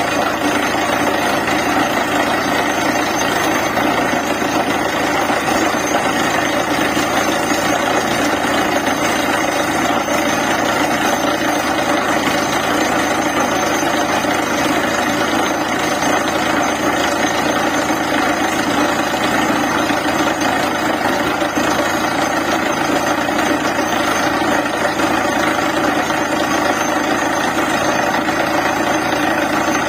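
Borewell drilling rig running steadily at full work, its engine and air compressor driving the drill.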